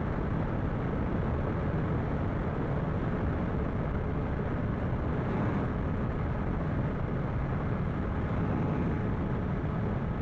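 Steady rush of wind and riding noise from a motorcycle cruising at an even speed, with no revving or gear changes.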